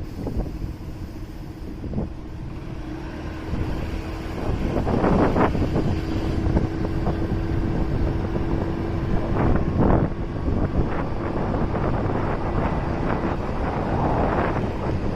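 Riding on a motorcycle: wind buffeting the microphone over engine and road noise, with a steady engine hum through the middle and gusts of wind noise about five seconds in, about ten seconds in and near the end.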